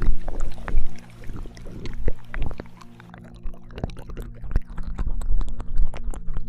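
Binaural ASMR ear-licking mouth sounds: close wet clicks and smacks coming irregularly, several a second, over a steady low drone.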